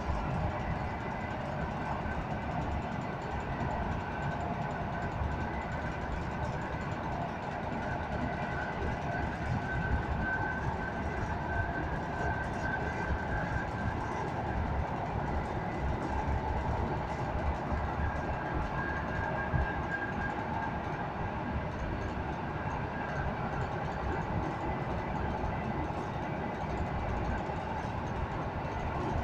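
Steady running noise of an EN57AL electric multiple unit heard from inside the passenger compartment: a low rumble of the wheels on the track at speed, with a faint high whine that comes and goes midway.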